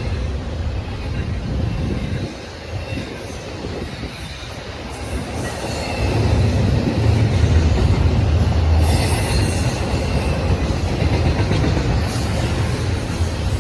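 Train cars of a BNSF freight rolling steadily past: a continuous low rumble of wheels on rail, with faint wheel squeal and rattling, easing off for a few seconds then swelling again.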